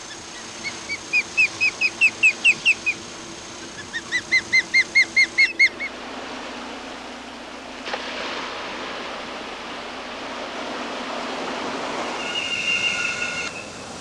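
A bird calling in two runs of about ten quick, rising chirps each, with a short pause between them. Later comes a steady rushing noise, with a brief higher call near the end.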